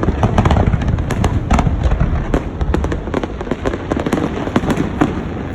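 Fireworks display going off in a rapid barrage: many sharp cracks and pops over a continuous low rumble of booming shells.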